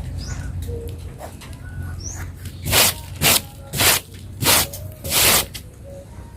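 Electric angle grinder motor dying away after a cut through steel bar, followed by five short, loud bursts of hiss.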